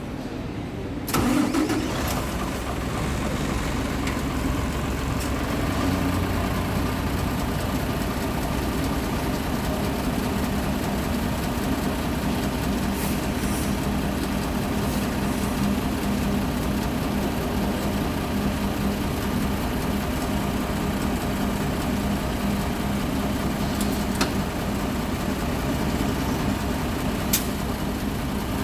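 Mitsubishi Fuso Aero Star city bus's diesel engine starting about a second in and settling into a steady idle with a clattering diesel rattle.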